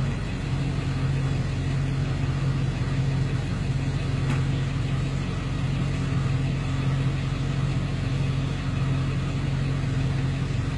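Engine running steadily, a low even drone with no change in pitch, with a single short click about four seconds in.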